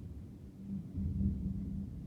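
Thunder rumbling low and rolling, swelling about a second in.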